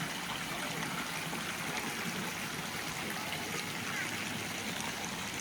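Water running and trickling steadily, as from the resort's hot-spring pool inflows.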